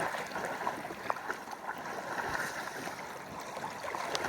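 Seawater splashing and lapping as a person moves through it, a steady watery wash with small scattered splashes.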